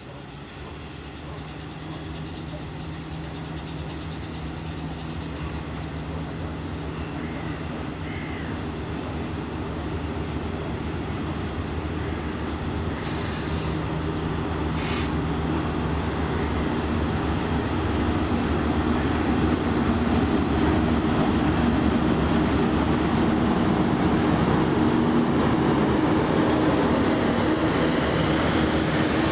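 VL10U electric locomotive hauling a train of tank cars, approaching and passing close by. Its steady hum and the rolling of wheels on rail grow louder throughout, with two short hisses about 13 and 15 seconds in.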